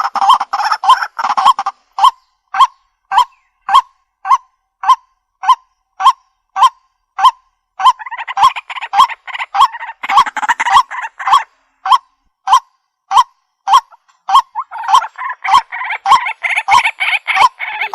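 Waterhen (jal murgi) calling: a steady series of short, sharp, loud calls, just under two a second, broken by runs of fast, overlapping calling about eight seconds in and again near the end.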